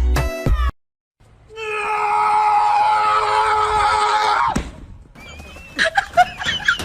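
Music cuts off suddenly, and after a brief gap comes one loud, high scream held for about three seconds, its pitch sinking slightly before it breaks off. Near the end there are a few short squeaky chirps.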